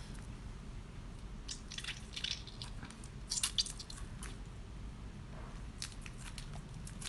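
A person eating seafood close to the microphone: wet squishing and smacking mouth sounds in three short clusters of clicks, the first about a second and a half in, the loudest about three seconds in, and the last near the end.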